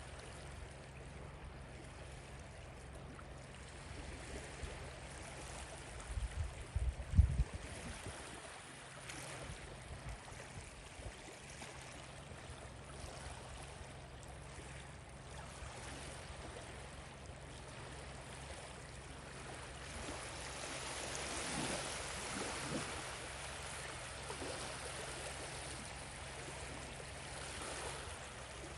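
Small lake waves washing on the shore, a steady rushing wash that swells for a few seconds after the twenty-second mark. A few low thumps come about six to seven seconds in.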